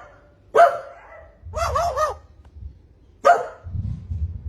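Pet crow giving short, harsh calls that sound like a dog's bark, three bouts, the middle one a quick wavering triple, typical of a crow mimicking a dog.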